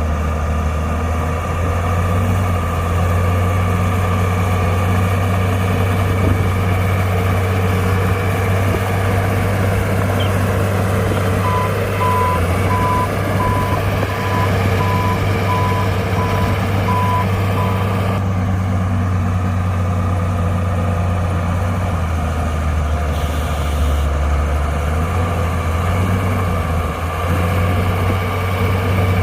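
Heavy diesel engine of a Komatsu D60-P bulldozer running steadily under load. Partway through, a reversing alarm beeps at a single pitch about twice a second for several seconds.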